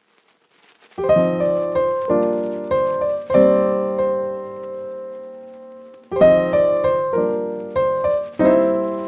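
Background piano music: chords begin about a second in and fade, and another phrase of struck notes comes in around six seconds in.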